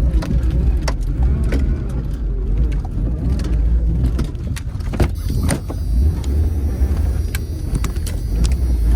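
An old vehicle's engine running with a steady low rumble, shortly after a cold start. Scattered clicks and knocks sound over it, with a sharp clunk about five seconds in.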